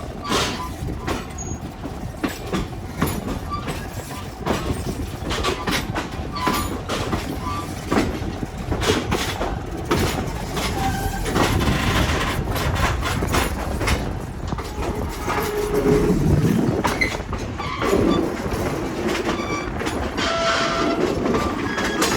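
Passenger train running along the track, heard from aboard one of its cars: a continuous rumble with the clickety-clack of wheels over rail joints, and a few short steady tones over it in the second half.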